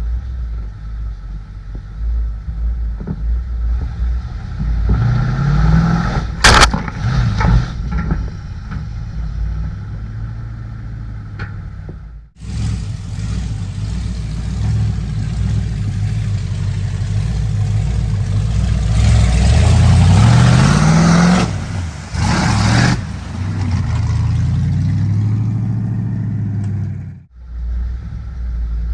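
Old Ford mud truck's engine running hard and revving through mud, climbing in pitch a couple of times, with a sharp knock about six seconds in. The sound drops out briefly twice.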